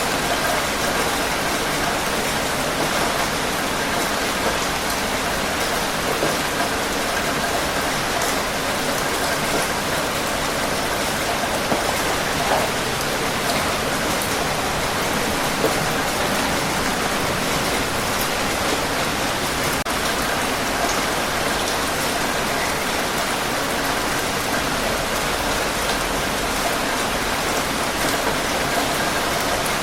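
Steady rain falling and pattering on a surface, a dense even hiss full of small drop impacts.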